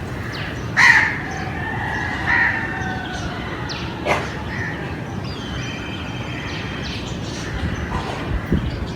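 A rooster crowing once, a pitched call of about two seconds starting about a second in, over steady background noise; fainter chirps of smaller birds follow later.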